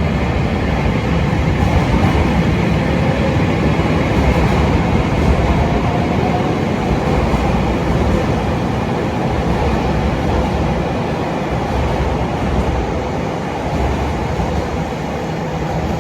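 JR Hokkaido 733 series electric multiple unit running at speed, a steady rumble of wheels on the rails.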